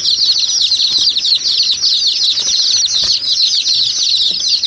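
A flock of small birds chirping all at once: a dense, unbroken chatter of quick, high chirps.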